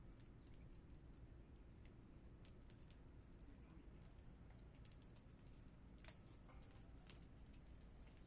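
Small fire crackling faintly, with sparse irregular pops and ticks over a low steady hum.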